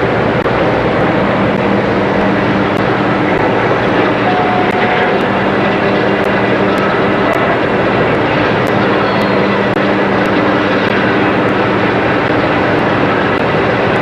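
Boat engine running steadily underway, a constant drone mixed with wind and water noise.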